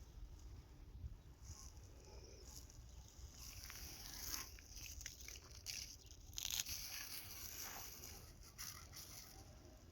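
Faint, irregular crunching and rustling.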